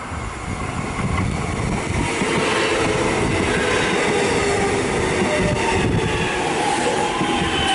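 Electric suburban train pulling into the platform and passing close by, its wheels rumbling under a whine of several tones as it slows to stop. The sound builds over the first two seconds, then holds steady and loud.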